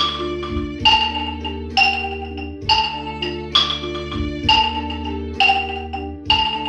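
Music from a noise-instrument (percussion) ensemble: a bright struck note rings out about once a second over held lower notes.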